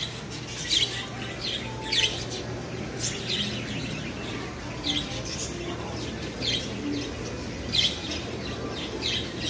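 Bird chirping: short, high chirps repeated about once a second.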